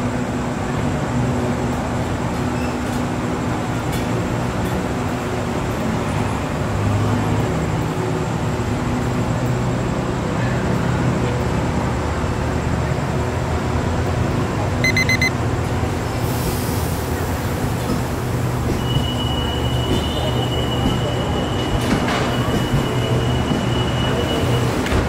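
Diesel-hauled passenger train pulling out, its carriages rolling slowly past with a steady low engine hum. About 15 s in comes a brief shrill whistle trill, and near the end a thin, high wheel squeal is held for about five seconds.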